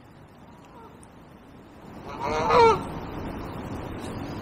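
A single loud, harsh bird call lasting about half a second, a little over two seconds in, over a low steady background noise.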